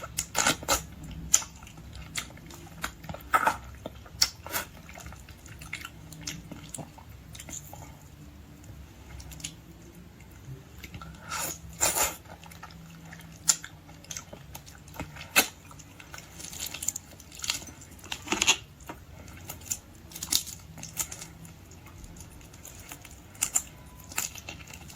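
Person chewing and biting into red devil shrimp, an irregular run of wet clicks and crackles over a faint low hum.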